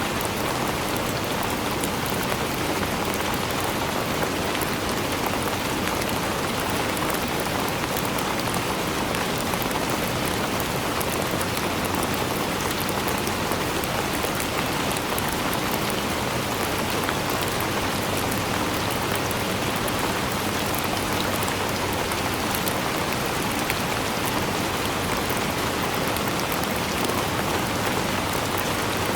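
Steady rainfall, drops pattering on a surface, with fine individual drop taps over an even hiss and no change in strength.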